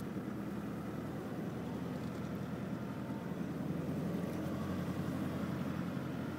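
Four-wheel drive's engine running steadily under load while climbing a soft sand track, heard from inside the cabin.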